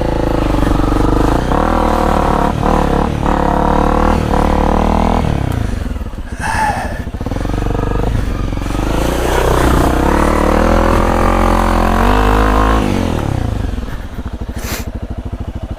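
Honda CRF250L's single-cylinder four-stroke engine running at low trail speed, revs rising and falling with the throttle. The revs drop about two thirds of the way through and it putters at low revs near the end.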